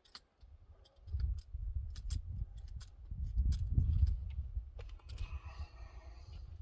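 Pistol-grip grease gun at work on the tractor's grease fittings: scattered clicks and handling noise over a low rumble, with a short high tone near the end.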